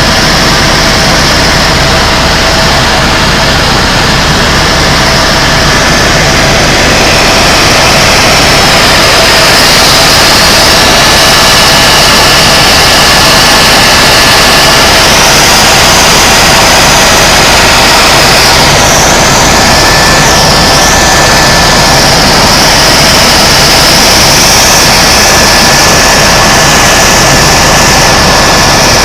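Tour helicopter's turbine engine and rotor in flight, heard from inside the cabin as a loud, steady drone with a faint high whine that wavers a little.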